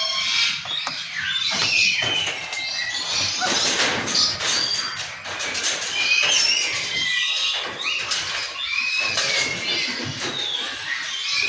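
Baby umbrella cockatoos calling over and over with a rapid stream of shrill squeals, chirps and rasping cries.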